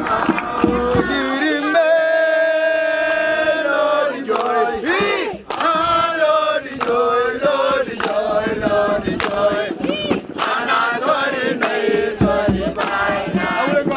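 A group of voices chanting and singing a camp song together, with a long held note about two seconds in and sharp percussive hits through it.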